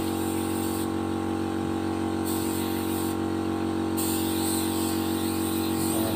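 Air compressor running steadily while a paint spray gun hisses. The hiss cuts out twice for a second or so, as the trigger is released and pressed again.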